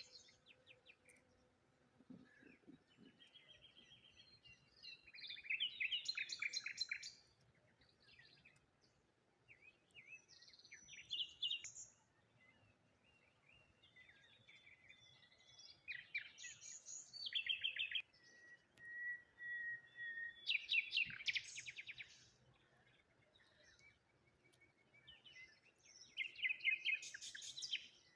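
Songbirds singing: bursts of quick, repeated chirps and trills every few seconds, with a thin, steady whistled note partway through.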